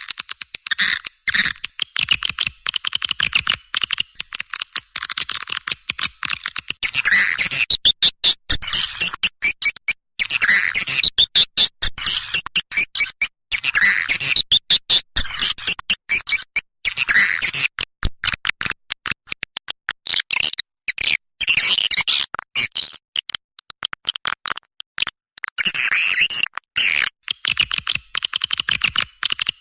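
Recorded swiftlet calls used as a lure call: dense, rapid, high twittering and clicking chirps that come in bursts a second or two long with brief breaks between them.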